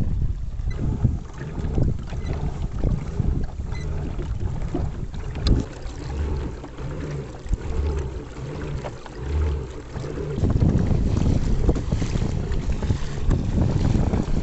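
Wind buffeting the microphone, a loud low rumble with scattered small knocks, louder again from about ten seconds in.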